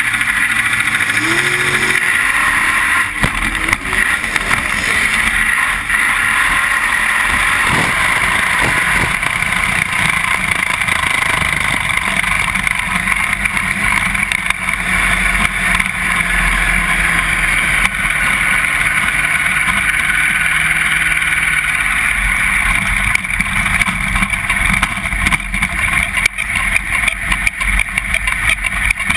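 Steady loud noise of a vehicle in motion heard from an onboard camera, with wind rushing over the microphone.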